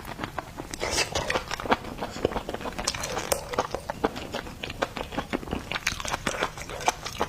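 Close-miked chewing and biting of food: a dense run of irregular wet clicks, smacks and small crunches.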